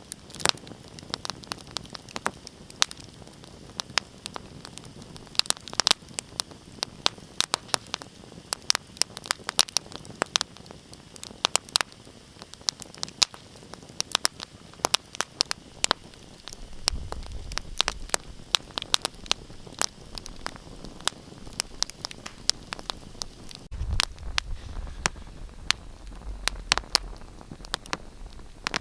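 Wood fire in a fireplace crackling: dense, irregular sharp pops and snaps over a steady hiss. A low rumble comes in twice in the second half.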